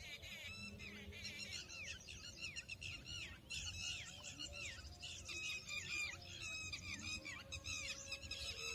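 Birds chirping and singing, many short quick calls overlapping without pause.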